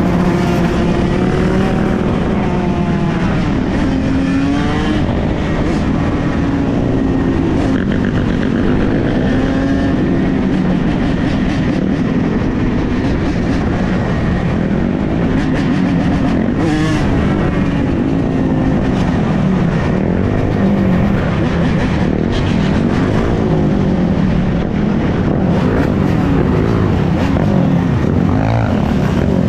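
A large pack of dirt bikes running and revving together, many engine notes rising and falling in pitch over one another.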